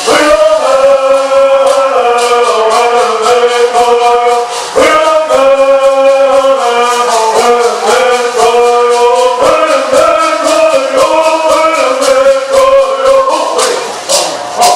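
Bird Song singing: a group of singers chanting in unison, with gourd rattles shaken in a steady quick beat.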